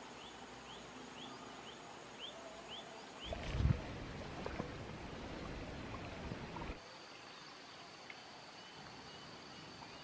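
A bird calls a series of short rising chirps, two or three a second, over the first three seconds. Then come a few seconds of rustling and low bumps, and after that only faint steady high-pitched insect-like tones with a few weak chirps.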